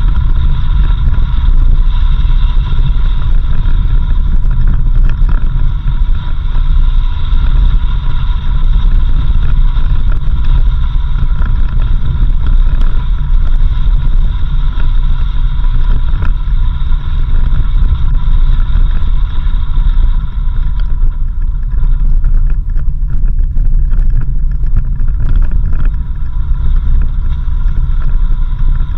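Off-road vehicle driving on a dirt road: a loud, steady low rumble of engine and tyres, with a high steady whine over it that fades about two-thirds of the way through.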